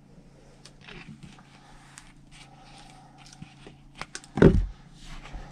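Small clicks and knocks of a plastic bottle of resin and a plastic measuring cup being handled on a counter, with one heavy thump about four and a half seconds in. A steady low hum runs underneath.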